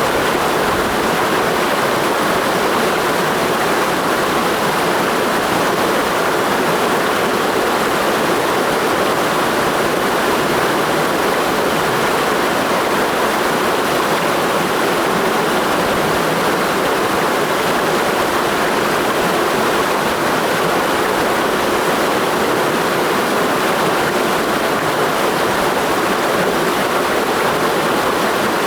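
Mountain stream rushing steadily, a constant even rush of water with no breaks.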